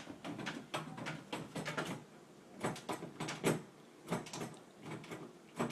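Door handle rattling and the door knocking as dogs paw at it from the other side, trying to open it: repeated clicks and knocks in short bursts.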